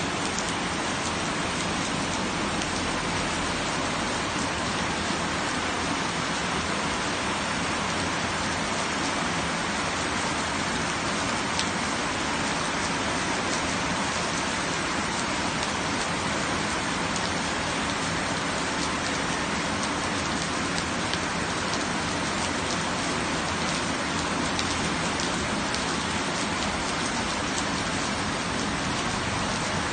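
Steady rain falling and pattering on surfaces, with faint scattered drip ticks.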